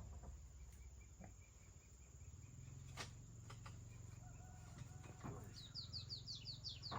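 Faint outdoor quiet with a few light knocks, then, about two-thirds of the way in, a small bird calling a rapid run of short, falling high chirps.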